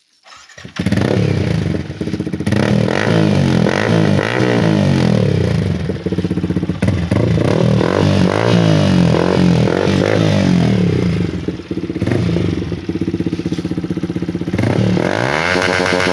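Yamaha R15 V3's single-cylinder engine starting through an aftermarket full-system exhaust about a second in and being revved again and again. A longer rev climbs in pitch near the end.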